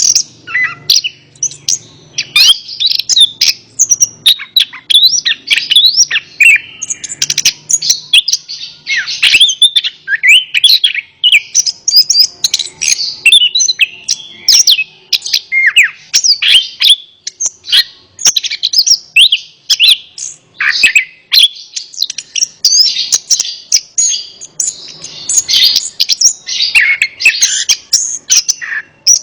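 Orange-headed thrush (anis kembang) singing a fast, unbroken run of varied chirps and whistled phrases, the notes sliding up and down in pitch.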